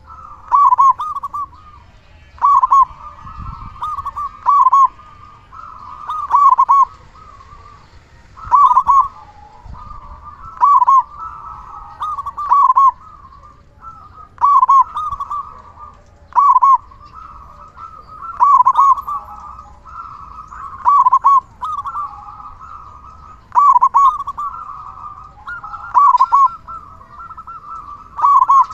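Zebra dove (perkutut) singing over and over: a short phrase of quick, bubbling coos about every two seconds, with a softer purring trill running between the phrases.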